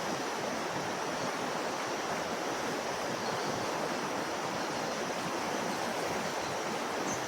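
Steady rushing of a swollen creek running full of water.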